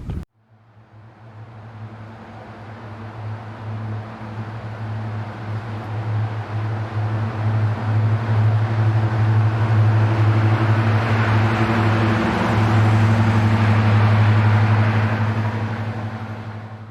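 A vehicle running with a steady low hum and a rushing noise that grows louder over about twelve seconds, then fades out near the end.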